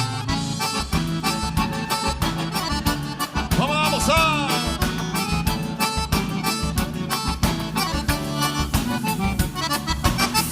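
Live gaúcho dance band playing an instrumental vaneira intro, with an accordion lead over bass and drums keeping a steady beat. A brief sliding, wavering note rises and falls near the middle.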